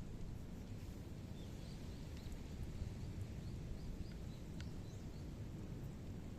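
Outdoor ambience: a steady low rumble with a string of short high chirps through the middle, and a few faint clicks.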